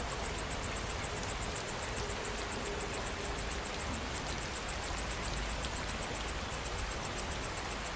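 Steady rain falling, with an insect such as a cricket chirping in a fast, even, high-pitched pulse of about six chirps a second over the rain.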